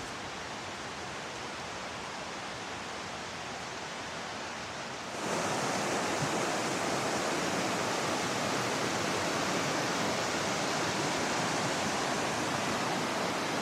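Small woodland river cascading over boulders: a steady rush of water that gets suddenly louder and brighter about five seconds in, then holds steady.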